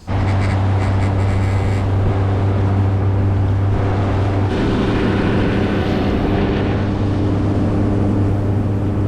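Boat outboard motor running steadily under way, a loud constant engine drone with a slight shift in tone about halfway through.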